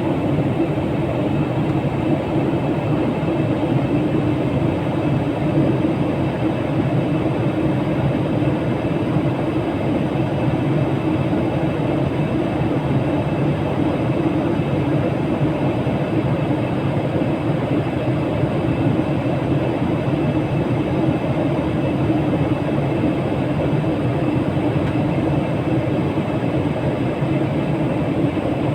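Steady rumble of a moving vehicle, even and unbroken, strongest in the low range.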